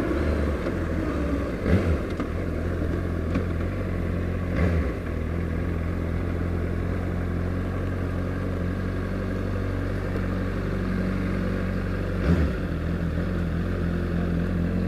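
Honda CBR600RR's inline-four engine running steadily at low revs, with brief changes in its note about two, five and twelve seconds in.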